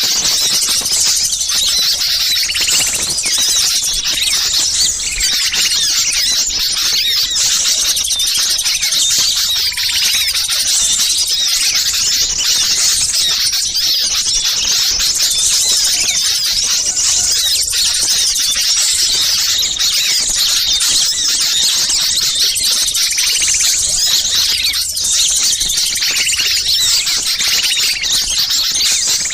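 Dense, unbroken chorus of many small songbirds chattering and twittering agitatedly in high-pitched calls: a mixed small-bird commotion (ribut) of the kind played as a lure to draw wild birds down.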